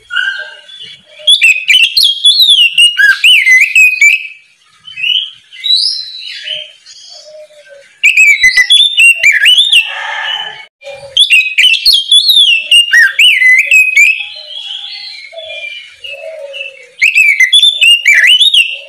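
Oriental magpie-robin (kacer) singing full, open 'ngeplong' song: four loud bursts of several seconds each, made of fast, varied whistles that swoop up and down, mixed with harsh scratchy notes, with quieter, sparser calls in the gaps between.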